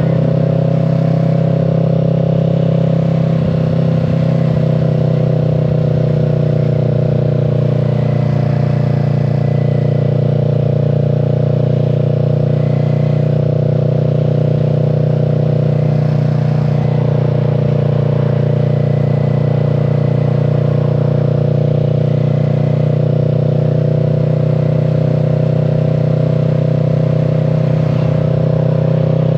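Kawasaki Z650's parallel-twin engine and exhaust running steadily at a constant pitch, with no revving up or down.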